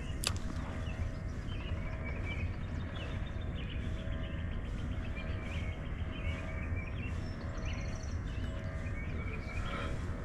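Small birds chirping on and off over a steady low outdoor rumble, with one sharp click just after the start.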